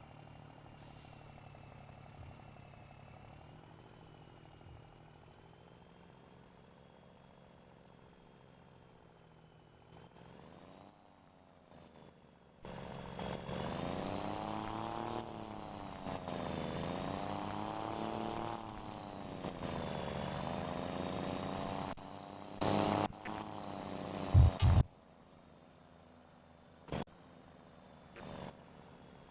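Scania Super 540 truck engine with a straight-pipe exhaust, running low and steady at first. About twelve seconds in it pulls hard, the revs rising and falling in swells with brief breaks between them like gear changes. A couple of short loud bursts come near the end before it settles back down.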